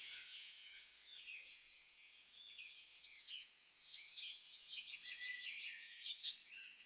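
A faint chorus of many small birds chirping and twittering, with quick overlapping notes. The calls thin out briefly about two seconds in, then grow busier again.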